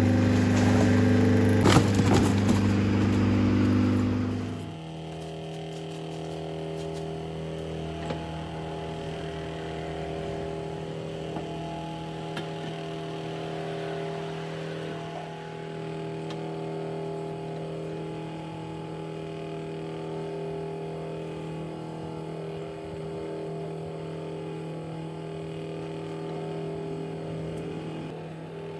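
Hydraulic press's pump motor running with a steady hum. It is louder for the first four seconds or so, then drops suddenly to a quieter, steady drone.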